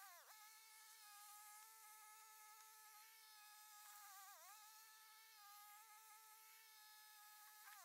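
Near silence with a faint, steady high whine that dips briefly in pitch three times: once at the start, once about four seconds in, and once at the very end.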